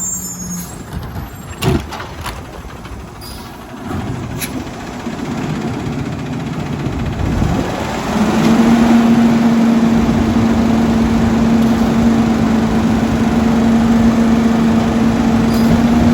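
Autocar ACX garbage truck with a Labrie Helping Hand side-loader working, with a short sharp air hiss about two seconds in. Engine and machinery noise then builds and, about eight seconds in, settles into a loud steady pitched whine that holds.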